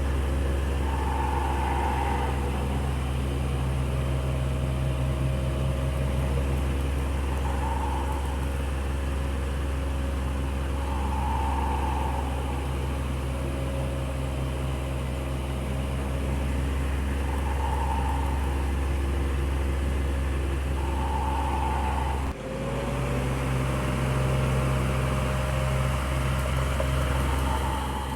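Electric fan running steadily: a motor hum with a rush of moving air, and a faint sound that swells and fades every few seconds. About 22 seconds in the sound drops out for an instant and resumes at a slightly different pitch, like a splice between two recordings of the fan.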